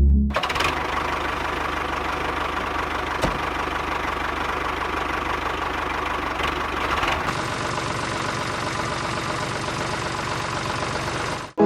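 An engine idling steadily with a rapid, even beat. Its sound shifts slightly about seven seconds in, and it cuts off sharply just before the end.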